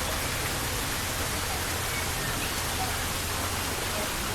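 Fountain water falling and splashing steadily into a koi pond.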